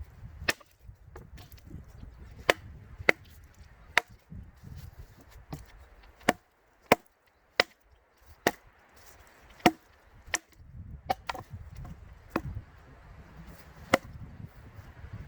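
Intertool splitting maul chopping pine logs into firewood: about a dozen sharp blows at irregular intervals, some coming in quick pairs.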